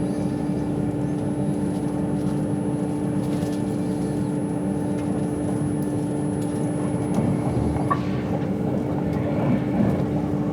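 Steady running noise of an Avanti West Coast passenger train heard from inside the carriage: an even rumble with a constant hum.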